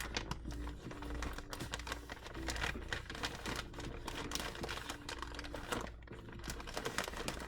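Papers and small craft pieces being handled and shuffled on a desk: a continuous run of light clicks, taps and rustles.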